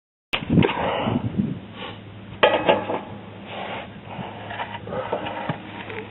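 Metal tools and parts clanking and clinking while being handled, with one sharp clank about two seconds in followed by a short rattle.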